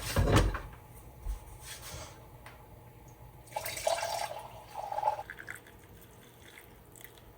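Kitchen sounds while coffee is being made: a dull thud at the start, a click, then liquid pouring and dripping for about a second and a half, cut off partway through.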